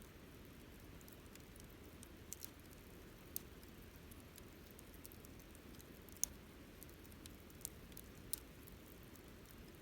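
Wood campfire burning, with a low steady rumble of flames and sparse sharp crackles and pops from the burning wood, the loudest about six seconds in.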